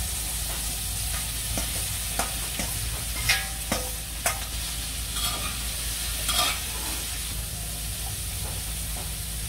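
Black-eyed peas frying in a little oil in a pot, with a steady sizzle, as chopped shallot is scraped in from a metal bowl. A metal spoon clinks and scrapes against the bowl and pot several times, loudest about three seconds in.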